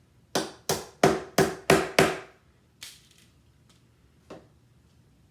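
Hammer driving a small nail into the top bar of a wooden beehive frame: six quick sharp strikes, about three a second, then two fainter taps.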